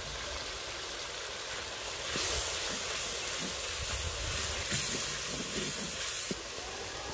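Onion-tomato masala frying in ghee in a clay pot, a steady sizzling hiss that grows louder about two seconds in as it is stirred, with a few light scrapes of a wooden spoon against the clay.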